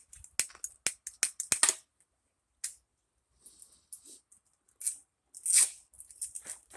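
Handling noise: a quick run of sharp clicks and taps, a pause, then more clicks and a brief rustle about five and a half seconds in.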